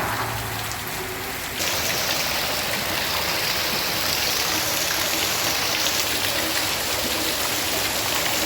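Heavy rain falling steadily, a dense hiss of rain on the ground, which grows louder and brighter about a second and a half in.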